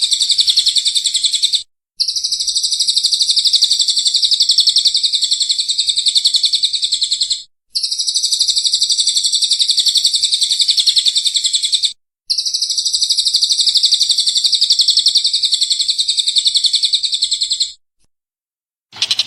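Bird song from a masteran training recording: long phrases of rapid, high, repeated chattering notes, each phrase lasting about five seconds, with four short pauses between them.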